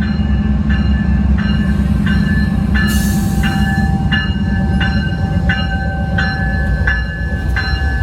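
Amtrak passenger train rumbling by at low speed, with a bell striking steadily about one and a half times a second. A short hiss comes about three seconds in, and a faint steady whine sounds through the middle.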